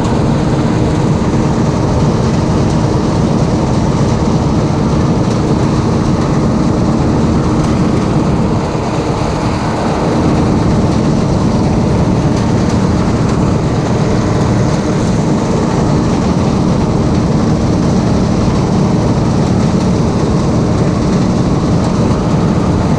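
Diesel engine of a farm machine running steadily, a loud continuous drone with a slight dip in level about nine seconds in.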